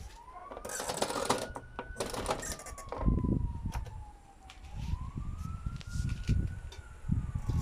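Whirlpool FL 5065 washing machine tumbling its drum during the softener rinse: the motor whine rises and falls slowly in pitch as the drum speeds up and slows, over the slosh and thud of wet laundry and water.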